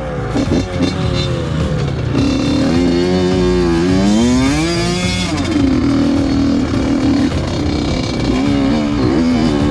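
Two-stroke dirt bike engine running and being revved: the pitch climbs and falls about three seconds in, holds steady for a while, then rises and falls again near the end.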